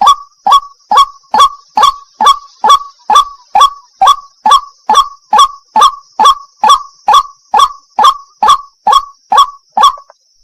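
White-breasted waterhen calling: a fast, even run of short 'wak' notes, a little over two a second, each dipping slightly in pitch, with a faint steady high hiss behind. The notes stop just before the end.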